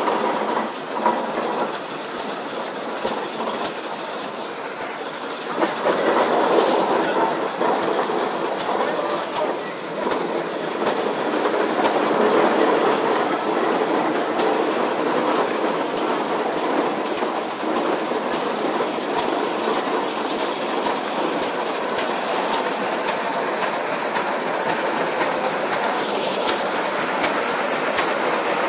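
Case steam traction engines running as they drive past, a steady mechanical clatter and chuff that swells partway through. Sharp regular clicks come in near the end, about one every two-thirds of a second.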